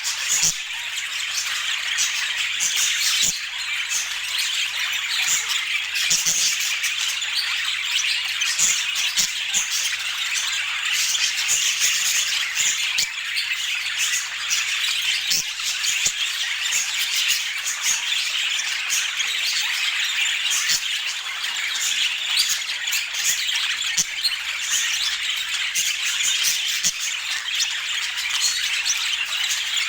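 Budgerigars chattering and squawking without a break, a dense warbling chatter from several birds.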